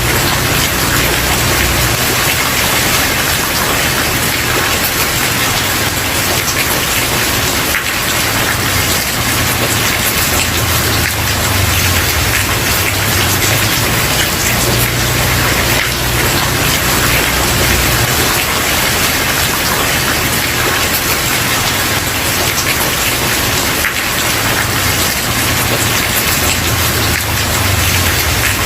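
Steady, heavy rain falling on a wooden porch, a dense even patter. A low rumble swells and fades underneath it at times.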